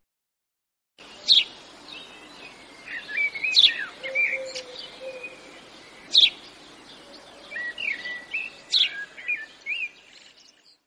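Songbirds calling and chirping over a steady background hiss: softer warbling chirps throughout, with four loud, sharp calls spaced about two and a half seconds apart. The sound begins after about a second of silence.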